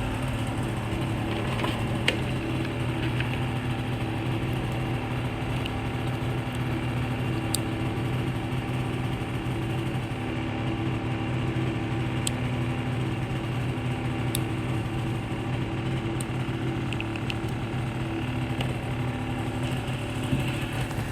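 Honda Live Dio AF35 scooter's 50cc two-stroke single-cylinder engine idling steadily, with a few faint clicks.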